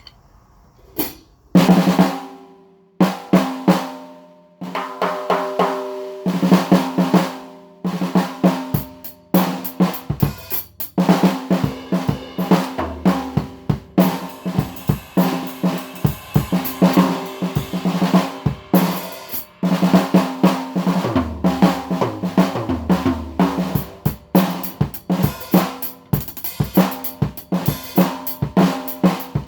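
A 14 x 8 snare drum with a 3D-printed marble PLA shell being played in quick runs of strikes, each hit ringing with a clear pitched tone. A bass drum joins twice, partway through and again past the middle.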